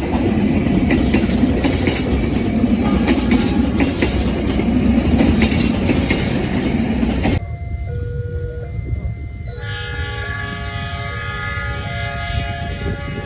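A train passing close by, its wheels clattering over the rail joints, cut off suddenly about seven seconds in. A tune of steady notes follows and grows fuller near the end.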